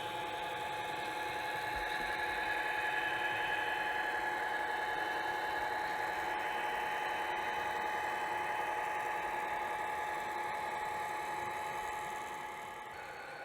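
HO scale model locomotive's sound decoder playing engine sound through its small onboard speaker, a steady, thin engine drone with a hiss. It grows a little louder about two seconds in and eases off near the end.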